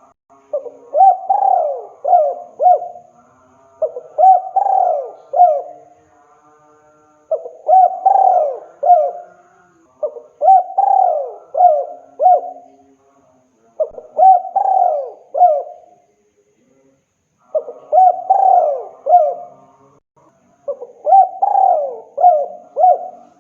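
Spotted dove (tekukur) cooing: a male's advertising call to a female, repeated seven times, each phrase a run of about four coo notes, with short pauses between phrases.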